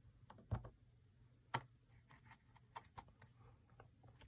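Light taps and clicks of a rubber stamp and paper being handled and pressed on a desk, with two louder taps about half a second and a second and a half in.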